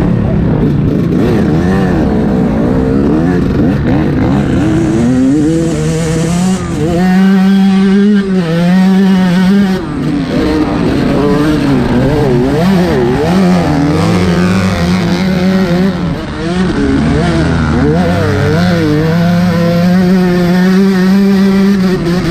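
Yamaha YZ125 two-stroke motocross bike being ridden hard. The engine's pitch climbs and drops again and again as the rider opens and closes the throttle and shifts gears.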